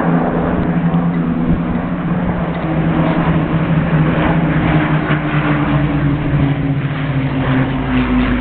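A Supermarine Spitfire and a Hawker Hurricane flying past together, their Rolls-Royce Merlin V12 piston engines making a steady propeller drone whose pitch shifts slightly as they move.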